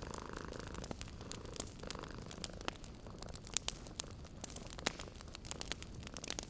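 Wood fire crackling in a fireplace, with irregular sharp pops several times a second, over a cat's low steady purring.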